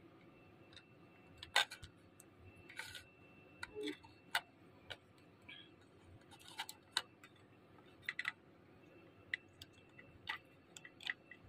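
Irregular light clicks and taps of connectors and a set-top box circuit card being handled, as one card is unplugged and the next one connected.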